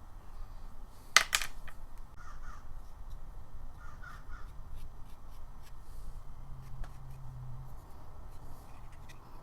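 A sharp click about a second in, then scattered light clicks and taps of a small gasket being cut and worked by hand.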